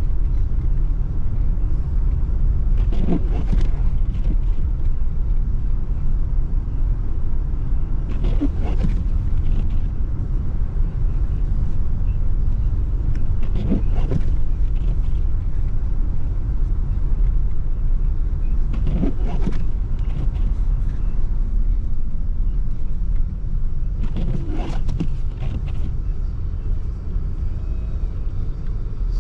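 Steady engine and tyre rumble inside a car's cabin while driving on snowy roads, with a brief swish about every five and a half seconds, like windshield wipers on an intermittent setting.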